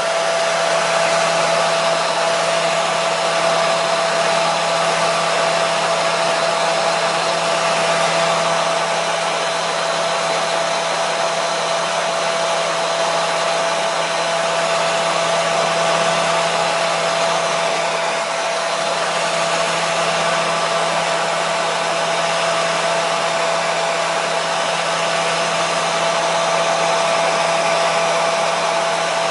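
Hair dryer running steadily: an even rush of blowing air with a constant motor hum and a steady whine, unchanging throughout.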